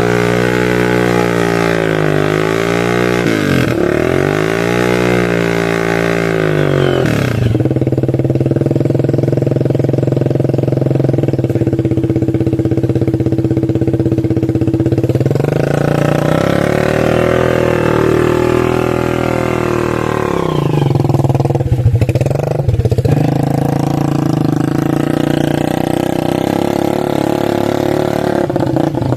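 Motorcycle engine revved hard under strain, its pitch rising and falling over and over, dropping sharply a few times as it bogs down while being forced through floodwater.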